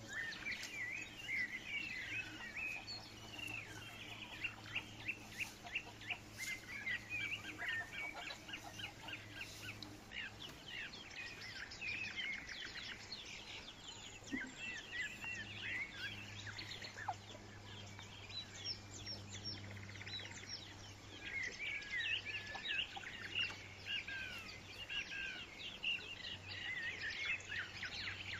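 A chorus of small birds chirping, many short calls overlapping, busiest in the first few seconds and again in the last several seconds. A steady low hum runs underneath.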